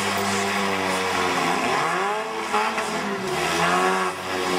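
Small four-cylinder demolition derby cars' engines revving hard, their pitch rising and falling repeatedly as they shove against each other.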